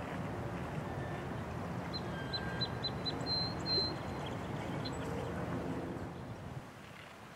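A bird giving a quick series of about six short, high chirps about two seconds in, over a steady low background noise that drops near the end.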